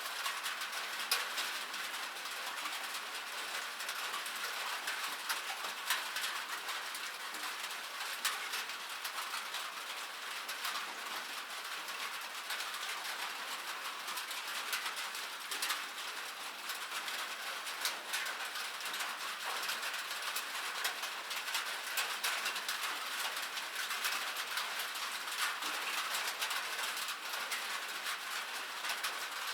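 Steady rain falling on a metal surface: a continuous hiss with dense, irregular ticks of drops striking the metal.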